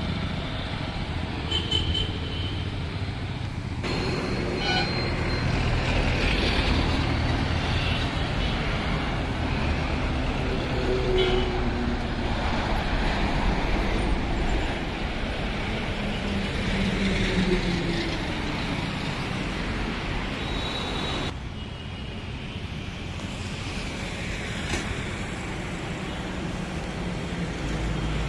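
Highway road traffic: vehicle engines and tyre noise running steadily, the sound changing abruptly about four seconds in and getting quieter about twenty-one seconds in.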